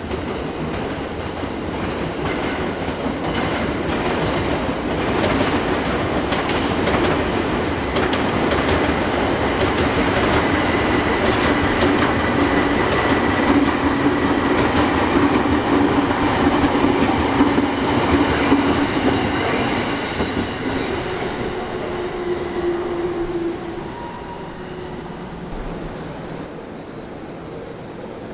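A JR East 209 series electric commuter train running past, its wheels clacking over rail joints and points. The rumble builds to its loudest about halfway through, with a faint steady whine, then fades quickly after about 23 seconds as the train goes by.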